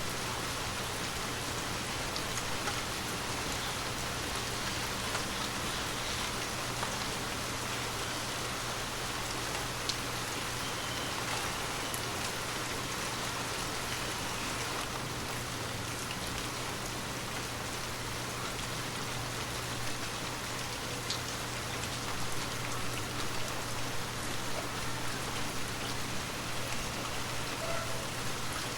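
Gentle rain falling steadily, an even hiss with scattered sharper drop ticks.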